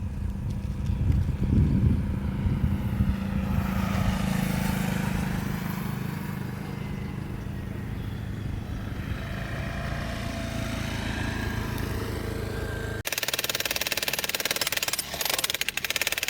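A small engine, likely a motorbike, runs steadily with a low hum. About thirteen seconds in it cuts off abruptly, and a fast, dense rattling takes over.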